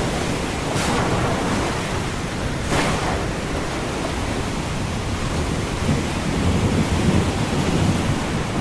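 Ocean surf, a steady wash of breaking waves with brief splashes about one and three seconds in. A low rumble of distant thunder builds over the last few seconds.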